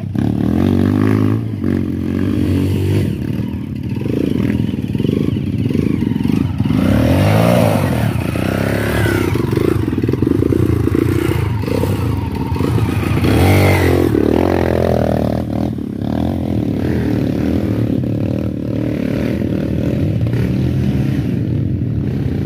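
Dirt-bike engine running under way, revving up and down over and over as the rider works the throttle, with rattling and scraping noise over it.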